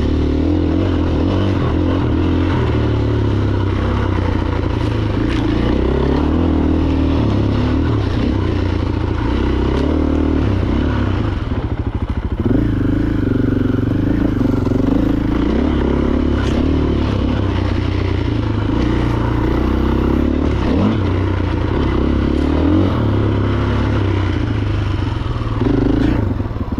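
Husqvarna FE 501 enduro bike's single-cylinder four-stroke engine running as it is ridden, its note rising and falling with the throttle, with a brief dip about halfway through.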